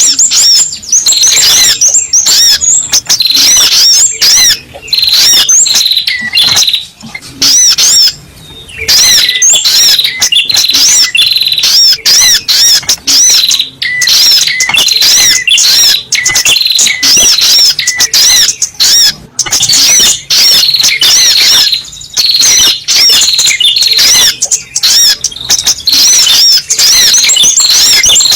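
Spiderhunter (sogok ontong) lure calls: rapid, repeated sharp high chirps in long runs, with brief pauses between runs.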